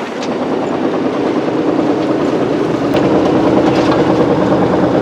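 Sailing boat's engine running steadily under way, a dense rhythmic drone that builds a little in the first seconds and then holds.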